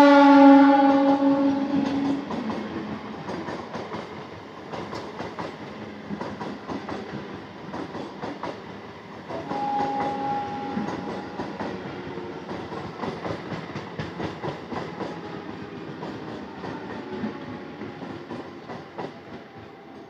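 Indian Railways suburban EMU train sounding a loud horn as it passes at speed, its pitch sagging slightly as it goes by. Then the rapid clickety-clack of the coaches' wheels over rail joints, a second, shorter horn about ten seconds in, and more clatter that fades near the end.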